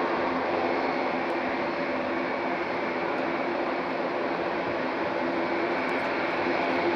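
Four-engine turboprop military transport aircraft running: a steady drone with a few steady tones in it, even in level throughout.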